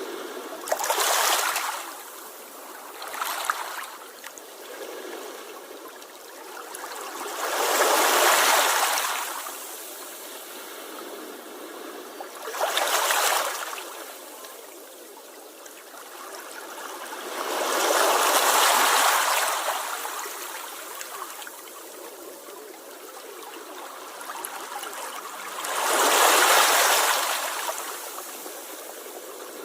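Sea waves washing ashore, a rushing wash of water that swells and fades in about six surges, the biggest near the middle and towards the end.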